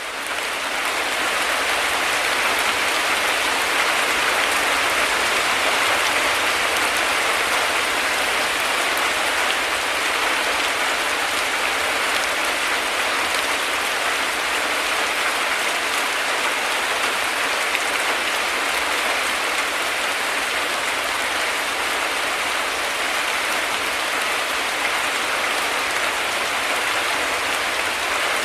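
Heavy rain falling steadily as a dense, even hiss, fading in over the first second.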